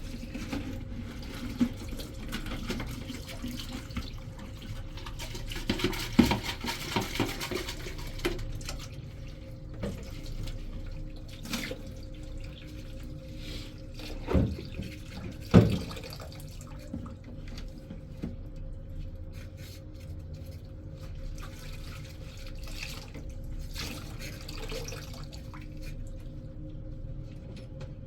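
Tap water running, with small clatters and two loud knocks about halfway through.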